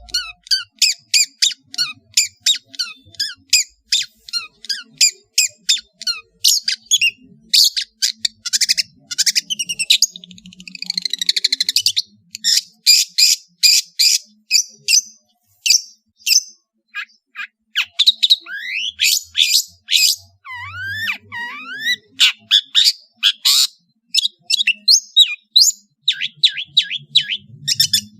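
Long-tailed shrike (cendet) singing a varied song: a rapid run of short, sharp chattering notes, a buzzy trill about ten seconds in, and sliding whistled notes around twenty seconds in.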